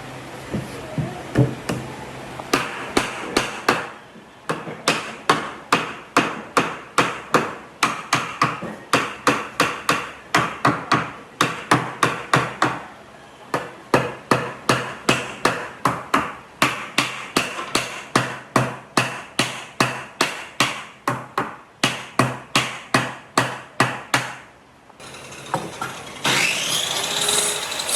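Hammer blows on wood, struck in quick runs of about two to three blows a second with short pauses between runs. Near the end the hammering stops and a steady power tool starts running.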